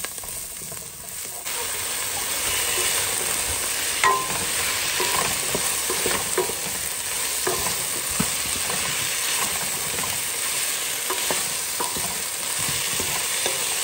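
Chopped onion and chicken pieces sizzling as they sauté in a pot, stirred with a wooden spatula that scrapes and clicks against the pan. The sizzle gets louder about a second and a half in.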